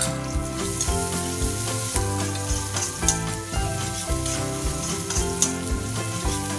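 Oil sizzling steadily as chopped garlic and shallots stir-fry in a wok, with occasional clicks and scrapes of a metal spatula against the pan. Background music plays underneath.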